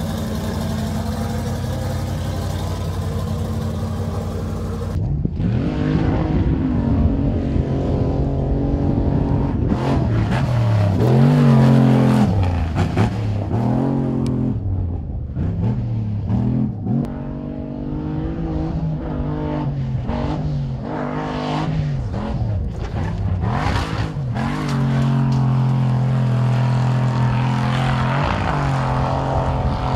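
Pro Lite off-road race truck's engine running on a dirt track. It holds a steady note for the first five seconds, then changes abruptly and revs up and down, its pitch rising and falling with the throttle.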